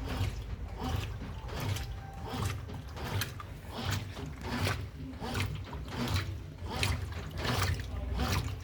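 Consul Maré 10 kg washing machine agitating its load: water and clothes slosh in a regular surge a little under twice a second over a steady low motor hum.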